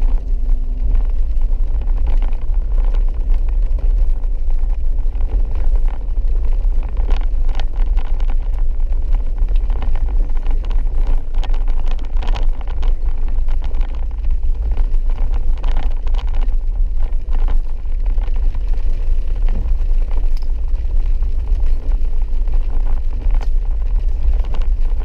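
Interior of a four-wheel-drive vehicle driving a wet, muddy dirt road: a steady, loud low rumble from engine and tyres, with scattered knocks and taps, most frequent in the middle stretch.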